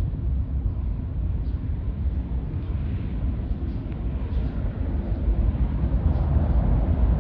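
Strong gusty wind buffeting the microphone: a steady low rumble that grows a little louder near the end.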